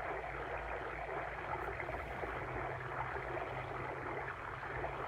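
Water stream flowing steadily, an even rush of running water.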